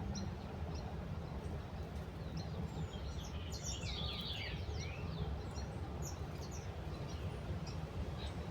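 Small birds chirping and twittering, with a quick flurry of chirps about four seconds in, over a steady low background rumble.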